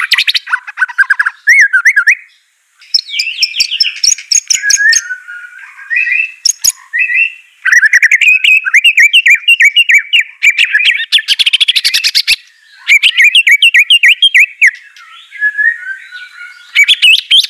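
White-rumped shama (murai batu) singing a loud, varied song of rapid whistled phrases mixed with sharp chattering notes, with a brief pause about two and a half seconds in.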